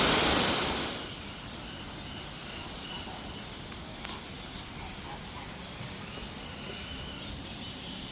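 Waterfall rushing loudly, fading out about a second in; then quiet outdoor ambience with a few faint bird chirps.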